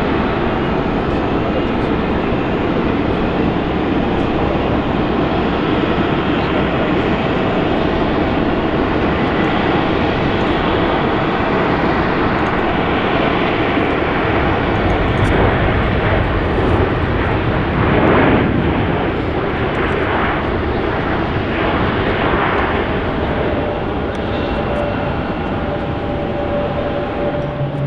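Airbus A321neo twin-engine jet airliner passing, its engines a loud, steady rush of jet noise with a faint whine, swelling a little past the middle.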